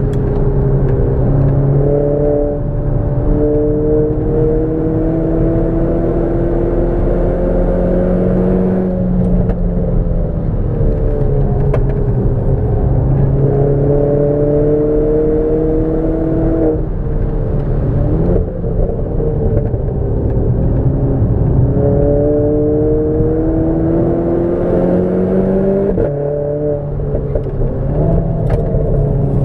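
Renault Clio 4 RS's 1.6-litre turbocharged four-cylinder engine under hard acceleration on track. Its pitch climbs steadily for several seconds, then drops sharply at each gear change or lift, about every eight or nine seconds, before climbing again.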